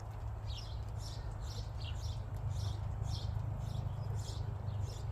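Bird chirping repeatedly, short high notes about twice a second, over a steady low rumble.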